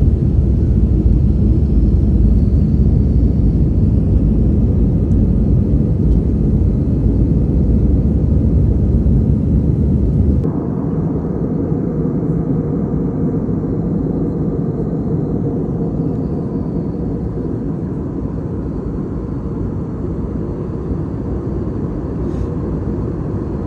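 Airplane in flight: a steady, loud rumble of engines and airflow. It changes abruptly about ten seconds in to a lighter, less bassy rumble.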